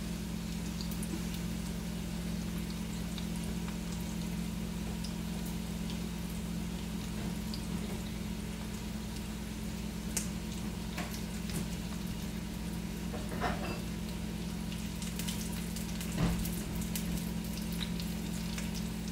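Taquitos frying in a pan on a gas stove, a faint steady sizzle with scattered small crackles over a constant low hum. A couple of light knocks come about two-thirds of the way through.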